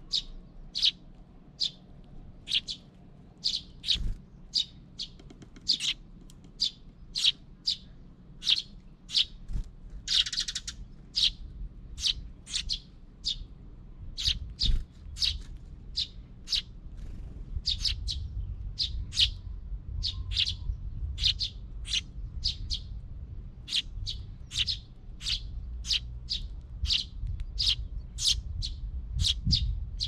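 Small birds at a feeder chirping: a steady run of short, high chirps, one or two a second. There is a brief rustle about ten seconds in, and a low rumble underneath grows louder in the second half.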